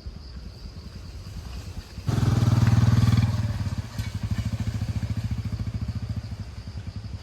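An engine that comes in loud and sudden about two seconds in, then keeps running with a steady, regular pulse.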